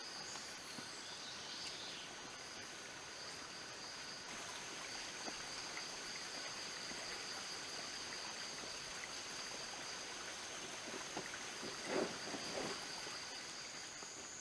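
Forest insects, crickets or cicadas, keeping up two steady high-pitched drones over a soft background hiss, with a short rustling crunch about twelve seconds in.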